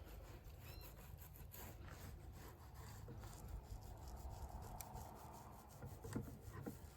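Faint rubbing and scraping as fiberglass coating material is worked onto a drum shell, over a low steady hum.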